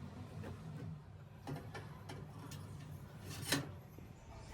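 A few light clicks and knocks from things being handled, with one sharper knock about three and a half seconds in, over a low steady hum.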